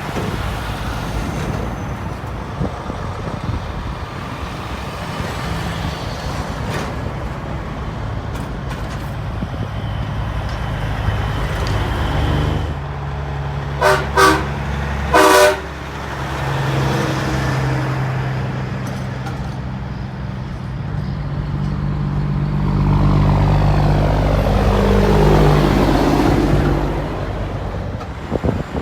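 Diesel semi trucks driving past, engines rumbling, with a truck's air horn sounded in three short blasts about halfway through: two quick toots, then a slightly longer one. Near the end a truck's engine grows louder as it goes by.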